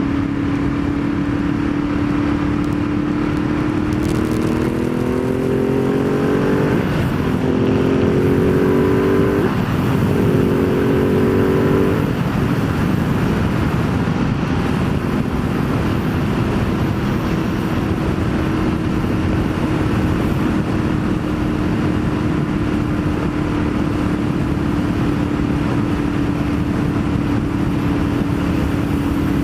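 Ducati Multistrada 1200S L-twin with a full Termignoni exhaust, pulling hard through the midrange: the engine note rises through three gears, with upshifts about 7, 9.5 and 12 seconds in. It then settles to a steady cruise under heavy wind rush.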